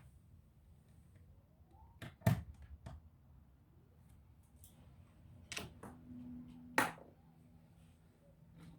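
Scattered small clicks and knocks of laptop parts and tools being handled during disassembly, with louder knocks about two seconds in and again near seven seconds.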